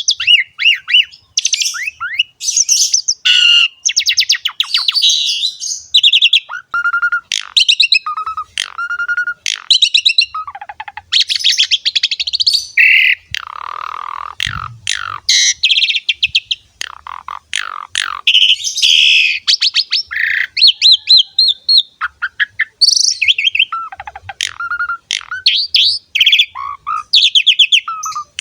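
Asian pied starling (jalak suren) singing continuously in a loud, varied run of whistles, rapid trills and harsh chattering notes.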